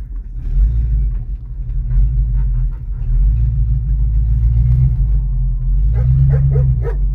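1989 Ford Mustang GT's 5.0 V8 running rough with an uneven low rumble, sounding dead on a cylinder, together with an odd noise that the owner takes for a vacuum pump or the power-steering pump. A dog barks a few times near the end.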